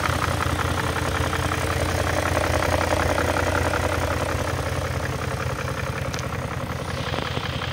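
BMW M62B44TU 4.4-litre V8 idling steadily under the open bonnet. The engine is due for a timing chain replacement and a VANOS rebuild.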